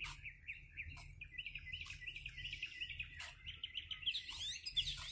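A bird chirping a rapid run of short notes that speed up and climb higher near the end, with faint scattered clicks.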